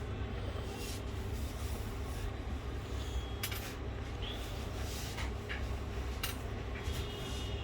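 Objects being handled on a workbench: light rubbing and a handful of short sharp clicks over a steady low hum.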